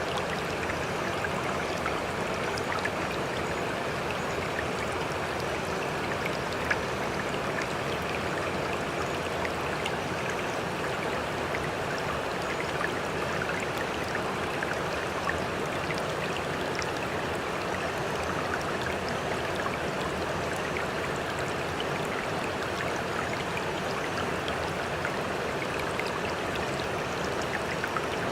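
Continuous sea water sound: a steady rush with many small splashes and crackles, holding an even level throughout and without the rise and fall of separate waves.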